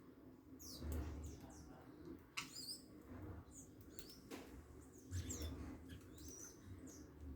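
Small birds giving many short, high chirps and quick sliding call notes, scattered and overlapping, with a few soft clicks and low rumbles underneath.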